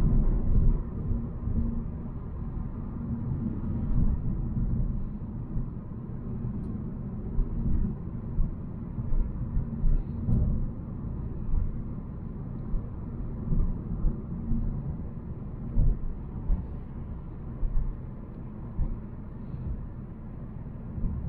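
Volvo C70 driving, a steady low rumble of engine and tyres on the road with short knocks scattered throughout.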